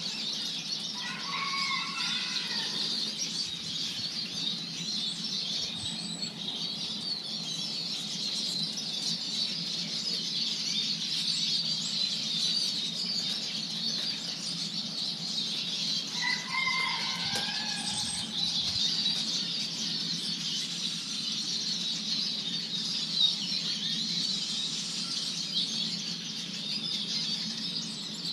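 Dense, continuous high twittering of small garden songbirds. A short lower call of a few falling notes cuts in twice, about a second in and again about halfway. A steady low hum runs underneath.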